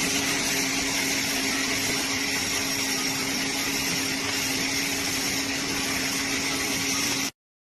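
A machine running steadily, a constant hum with a hiss above it, stopping abruptly near the end.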